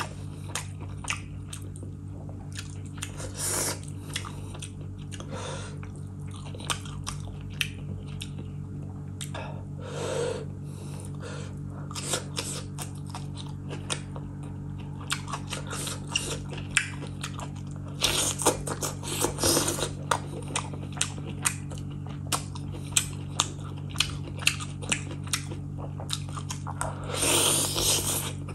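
Close-miked wet chewing, lip-smacking and sucking as mutton curry is eaten by hand, many small mouth clicks a second with a few longer, louder slurps. A steady low hum runs underneath.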